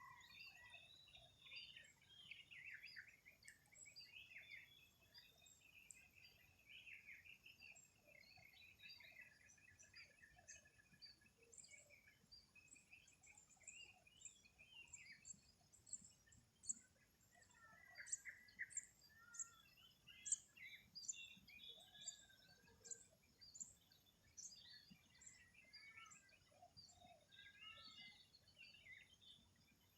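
Faint morning chorus of several birds chirping and warbling, the calls overlapping throughout and turning into many quick, high chips from about halfway through.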